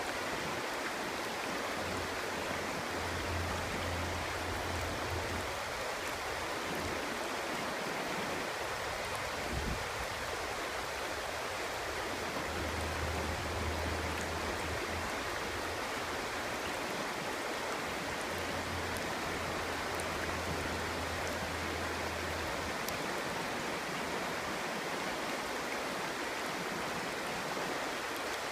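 Clear stream babbling steadily over stones, an even rushing murmur of water.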